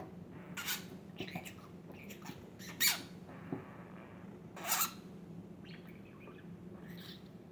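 Budgerigar chattering in short scratchy notes, with three louder harsh squawks spread through the first five seconds.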